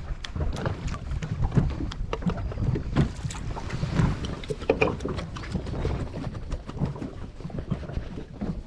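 Small boat on choppy water: waves slap and knock irregularly against the hull, with wind on the microphone.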